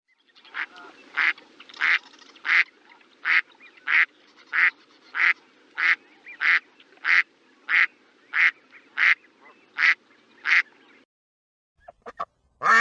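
Duck quacking in a steady series of about sixteen short quacks, roughly one every two-thirds of a second. The quacking stops, and a few brief, sharper sounds follow near the end, the last one loud.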